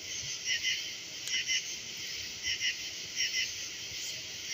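Night insects chirping: a short double chirp repeats about every three-quarters of a second over a steady high insect hiss.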